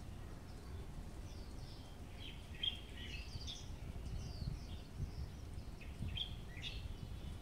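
Small birds chirping, short quick calls scattered throughout, some sliding up or down in pitch, over a steady low background rumble.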